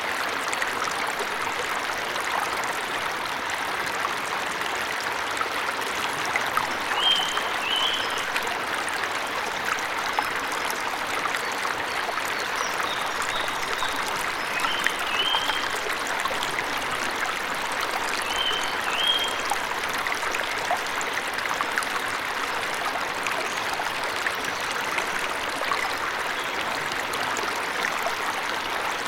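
Steady rush of a forest waterfall. A bird gives short high two-note chirps a few times, at about 7, 15 and 19 seconds in.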